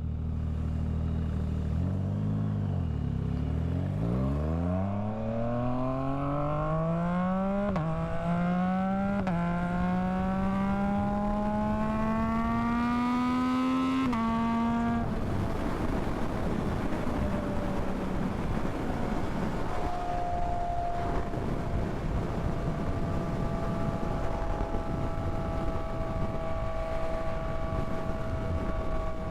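Yamaha MT-09 inline-three engine pulling away and accelerating, its pitch climbing steadily with two brief dips at upshifts, then easing off about halfway through into steady cruising with wind rushing over the rider.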